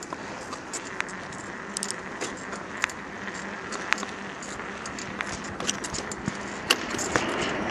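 Bicycle rattling as it is ridden: a steady rush of tyre and wind noise with irregular sharp clicks and rattles, getting a little louder near the end.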